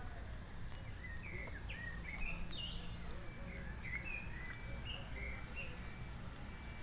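Small birds chirping, a quick series of short calls with fast pitch glides that dies away after about five seconds, over a steady low outdoor rumble.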